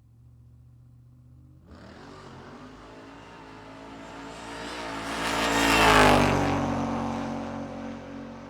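A car driving past. The engine and road noise build as it approaches and are loudest about six seconds in. The engine note then drops in pitch as the car moves away and fades.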